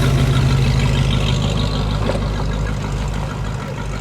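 A car's engine running steadily at low revs, easing off slightly near the end.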